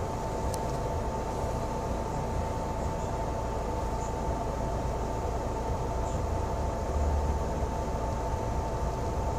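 Cabin noise inside a city bus on the move: a steady low engine and road rumble with a thin steady whine above it. A small click comes about half a second in, and the rumble swells briefly around seven seconds.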